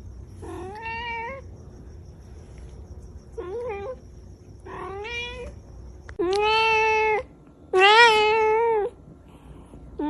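A domestic cat meowing five times, with short pauses between the meows. The last two meows are louder and longer.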